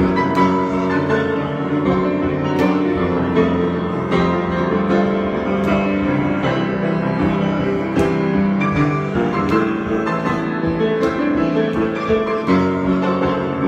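Piano improvisation, full sustained chords with notes struck now and then over them.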